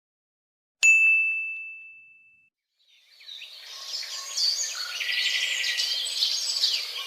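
A single bright ding, ringing out and fading over about a second and a half. About three seconds in, birds begin chirping busily and keep on until the end.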